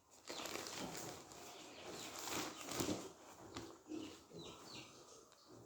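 Faint rustling of packaging and fabric as a blouse is taken out and handled, with a few louder crinkles about two to three seconds in.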